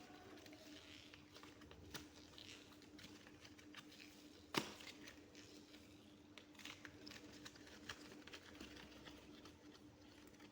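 Faint handling of soft modelling clay: small, sticky crackles and clicks as it is pressed and squeezed, with one sharper click about four and a half seconds in. A faint steady hum lies underneath.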